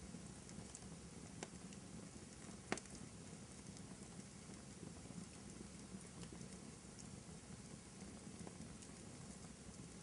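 Fireplace crackling softly: a low steady hiss of burning logs with scattered small pops, and one sharper pop a little under three seconds in.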